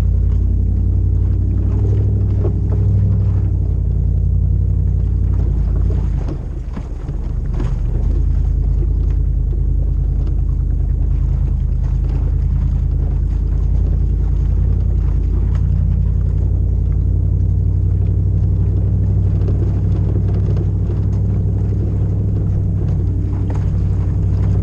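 Toyota 100 series Land Cruiser's 4.7-litre 2UZ-FE V8 on a full exhaust, running with a deep, steady rumble while driving. The note dips briefly about six seconds in, then settles back to the same steady run.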